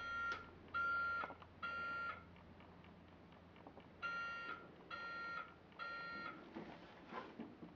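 Toy garbage truck's electronic beeper sounding two sets of three short, evenly spaced beeps, with a few faint knocks near the end.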